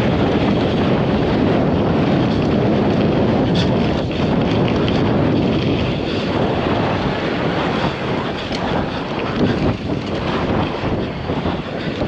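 Wind buffeting the microphone, a loud, steady rumble that wavers in strength.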